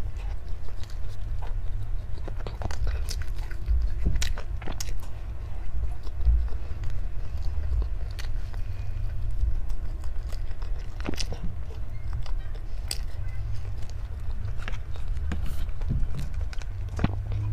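A person biting and chewing food close to the microphone, with irregular sharp crunchy clicks over a steady low rumble.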